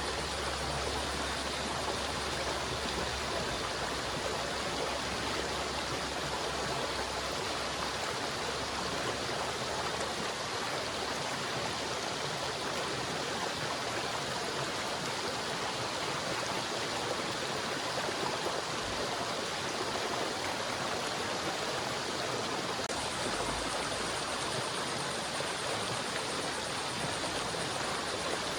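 River water flowing steadily, a dense, even rush of running water.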